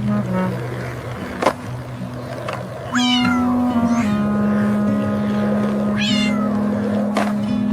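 A cat meowing twice, each meow falling in pitch, about three seconds apart, over soft background music with held notes. A sharp click comes about a second and a half in.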